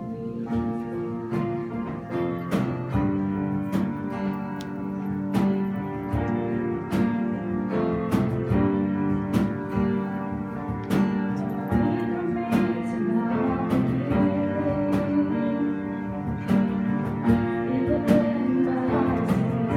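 Worship music: an acoustic guitar strumming chords in a steady rhythm over sustained notes.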